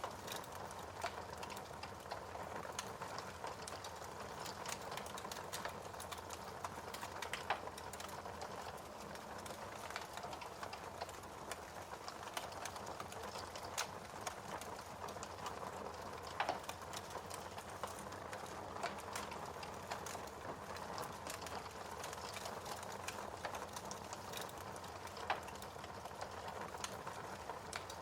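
Wood fire burning in a fireplace: a steady dense crackle with scattered sharp pops, a few louder ones standing out now and then.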